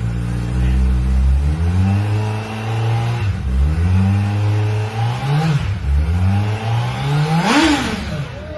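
2021 Suzuki Hayabusa's 1340 cc inline-four engine and exhaust being revved, its pitch rising and falling in several blips between steady running, with the sharpest blip near the end.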